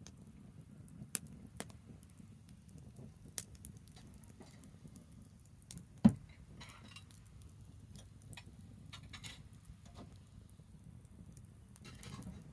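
Branch fire burning, with scattered sharp crackles and pops from the wood, the loudest about six seconds in, over a low steady background noise.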